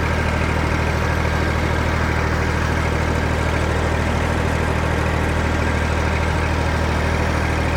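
Massey Ferguson MF230 tractor engine running steadily at an even speed, with a low, fast, regular throb, after being brought back to running order.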